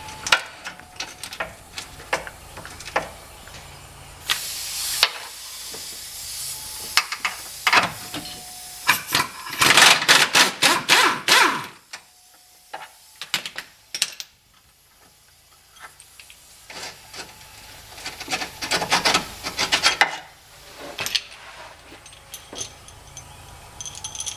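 Mechanic's tool work on a car: scattered metallic clicks and clanks, a short hiss of air about four seconds in, and two bursts of rapid rattling strikes, at about ten and nineteen seconds, from a pneumatic wrench.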